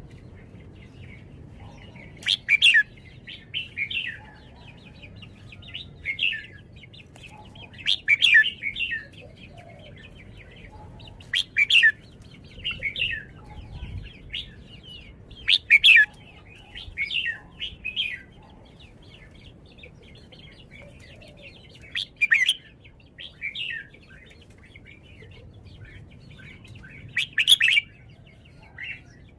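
Red-whiskered bulbul singing: short, loud, warbling phrases repeated every few seconds, with softer chirps in between.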